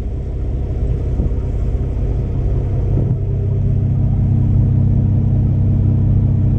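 Semi-truck diesel engine running with a steady low drone, growing slightly louder over the first few seconds.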